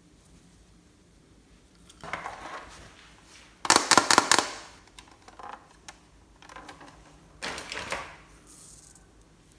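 Slime being squeezed and worked by hand, giving bursts of sticky crackling and popping. The loudest burst comes about four seconds in and another near eight seconds.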